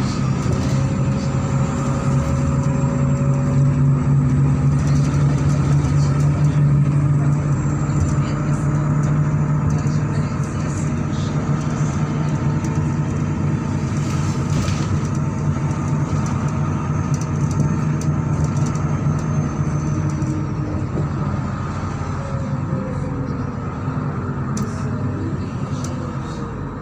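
MAZ-103.486 city bus running on the road, heard from inside the cabin: a steady engine drone with tyre and road noise. It eases off and drops in pitch over the last few seconds as the bus slows.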